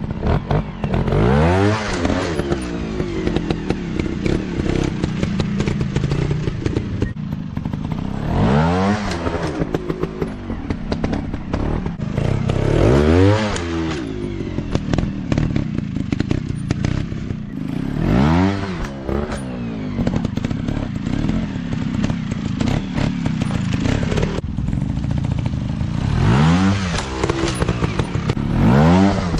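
Small dirt bike engines revving hard over and over, each burst rising and then falling in pitch, about six times, with clattering and scraping noise between them.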